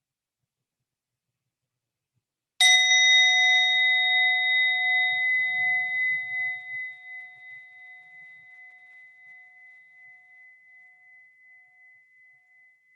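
A meditation bell struck once, about two and a half seconds in, then ringing on with a long fading tail that wavers in loudness. It marks the start of the meditation.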